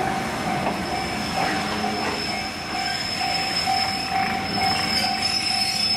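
Electric trains at a station platform: a steady rumble with a thin, high, steady squeal over it, and a mid-pitched ringing tone that repeats about twice a second.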